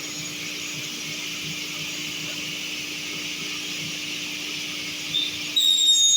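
Sliding table panel saw running with a steady hum and whir. Near the end, a louder high-pitched squeal suddenly sets in.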